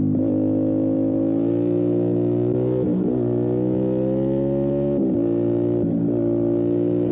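Motorcycle engine pulling under throttle on a winding road, its pitch climbing slowly. It dips briefly about three seconds in, again around five seconds and again about six seconds in, then picks up each time.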